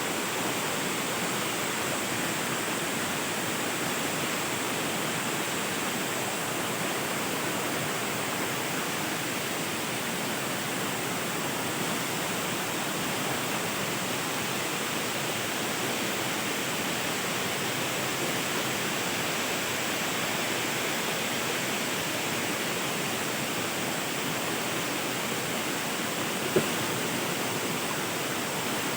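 Steady, even rush of a waterfall's falling water, with one short tap near the end.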